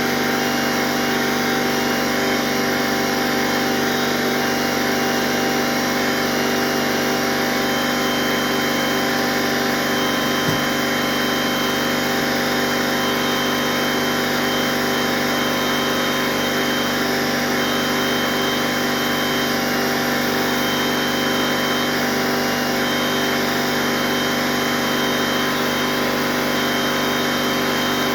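A power tool's motor running steadily and without a break, with one short knock about ten seconds in.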